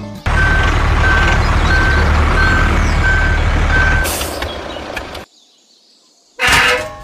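Truck engine running with its reversing beeper sounding six evenly spaced beeps. The sound fades out about five seconds in, and a short loud burst of noise follows near the end.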